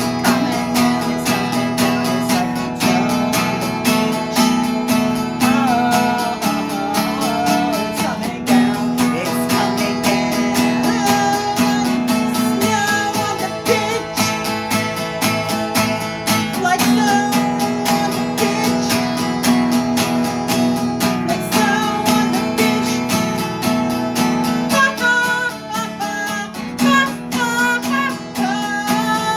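Strummed acoustic guitar music playing steadily.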